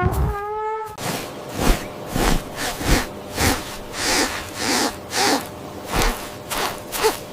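The tail of a cow's moo, then a farm animal's noisy snorting breaths repeated about twice a second.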